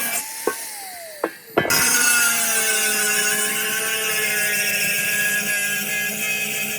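A power tool's motor winding down with a falling hum and a few sharp clicks, then a power tool starting abruptly about a second and a half in and running steadily, its hum sagging slightly.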